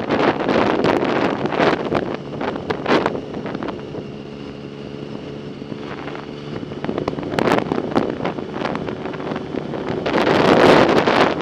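Wind buffeting the microphone on a moving bicycle, in gusts. It eases off in the middle, where a steady low hum comes through, then picks up again near the end.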